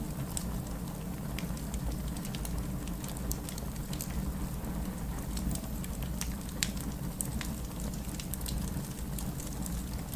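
Wood fire burning in a fireplace: a low steady rumble of flames with frequent irregular sharp crackles and pops, one louder pop a little past the middle.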